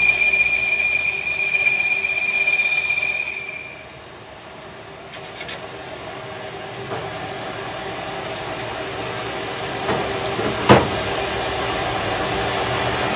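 A steady high-pitched metallic squeal from workshop machinery, which cuts off a few seconds in. A quieter low hum follows, with a few light clicks and one sharp knock near the end.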